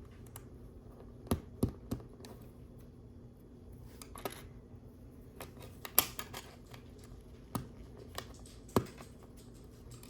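LEGO plastic pieces being handled and pressed together: a handful of scattered sharp clicks, the loudest about six seconds in.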